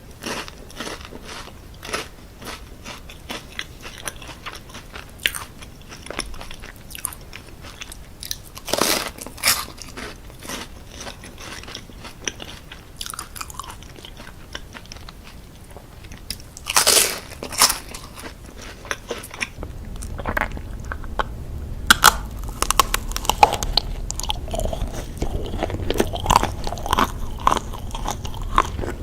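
Close-up eating of crunchy chocolate chips: repeated crunching bites and chewing, with louder bites about nine and seventeen seconds in and denser crackly chewing near the end.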